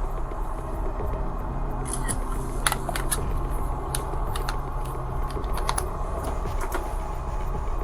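Scattered light clicks and taps, a dozen or so at uneven intervals, over a steady low hum.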